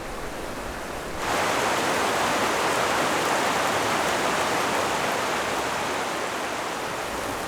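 Rushing river water, a steady roar of rapids that jumps louder about a second in.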